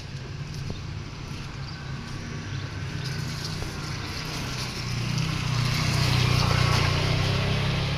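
A motor vehicle's engine running steadily with road noise. The sound grows louder about five seconds in and eases off near the end.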